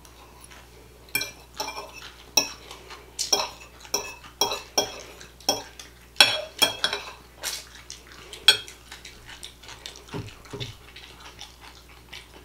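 Metal cutlery repeatedly clinking and scraping against a plate or bowl as food is scooped up, in quick irregular ringing clicks.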